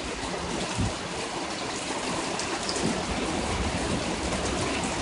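Heavy rain pouring down steadily in a thunderstorm, with a brief knock just under a second in.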